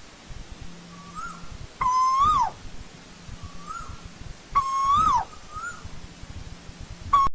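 Asian koel calling: two loud calls about half a second each, held level near one pitch and then dropping sharply at the end, with fainter short rising notes in between. A third loud call begins near the end and is cut off.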